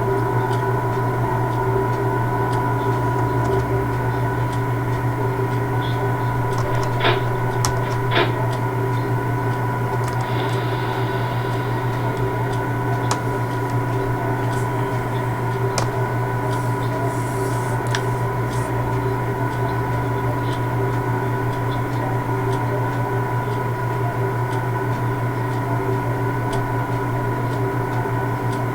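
Steady mechanical drone of standing railway vehicles, a low hum with several held tones over it, with two sharp metallic clicks about seven and eight seconds in.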